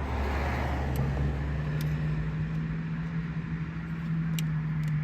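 A motor vehicle engine running, a steady low hum whose pitch steps up about a second in, with a couple of faint light clicks.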